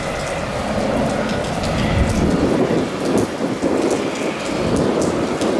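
Heavy rain falling on a hard surface, with sharp individual drop hits and a low rumble that swells about two seconds in.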